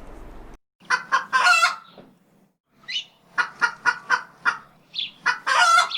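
Hen cackling: two runs of short, sharp clucks, each ending in a longer, louder squawk, the call a hen gives around laying an egg. It starts about a second in, after a faint steady hum cuts off suddenly.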